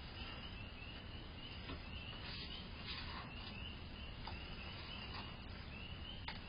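Crickets chirping outdoors at night, a steady run of short high chirps about twice a second, over a faint hiss.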